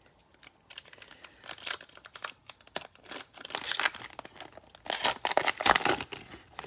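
Cellophane wrapper of a trading card pack being torn open and crinkled by hand, in irregular crackles that are loudest near the end.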